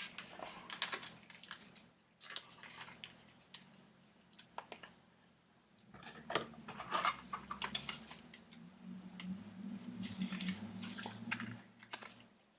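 Trading cards and plastic card sleeves being handled: irregular rustling, sliding and light clicking in clusters, with short quiet gaps between them.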